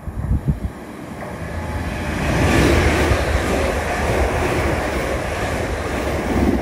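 Train passing close by on the West Coast Main Line: a rumble and rush of wheel and air noise that swells to its loudest about two and a half seconds in and holds, with a few low thumps near the start.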